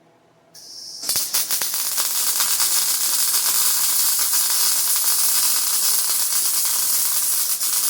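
Wire-feed welder striking an arc about a second in and welding 3/8-inch steel plate steadily, with a loud crackling hiss.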